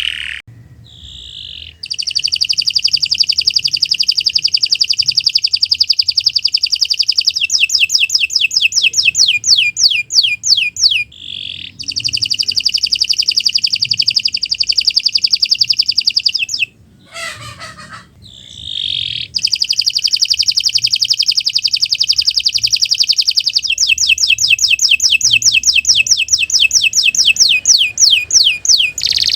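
Domestic canary singing long rolled phrases: three long runs of song, each a fast even trill that changes partway through into quicker sweeping notes, with short pauses between them.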